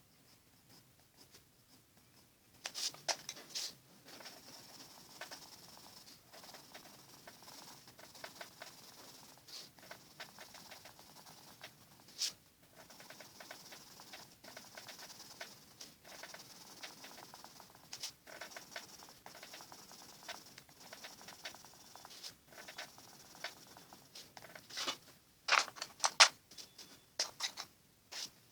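Faber-Castell watercolour pencil scratching on paper in quick, repeated shading strokes. It starts about three seconds in, and a few louder, sharper strokes come near the start and again near the end.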